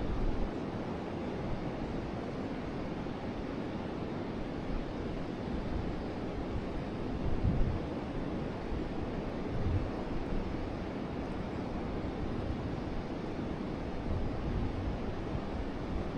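Forest river flowing steadily, an even rushing of water. Wind buffets the microphone now and then with low rumbles, most clearly about seven and a half and ten seconds in.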